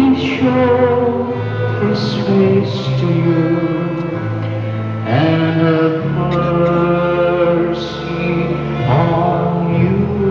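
A hymn sung with instrumental accompaniment, long held notes over a steady bass line, typical of the closing hymn after the final blessing of a Mass.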